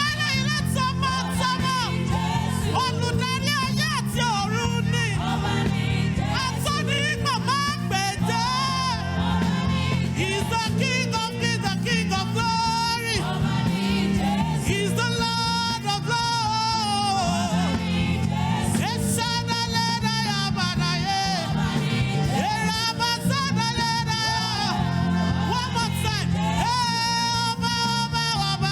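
Live gospel praise music: a band with a steady bass and beat, under group singing.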